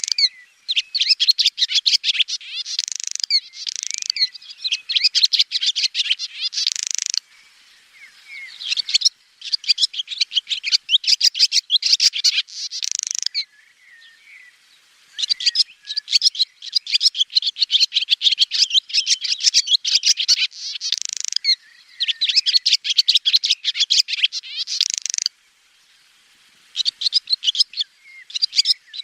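Swallow twittering: rapid, high chirps and trills in phrases of several seconds each, broken by short pauses.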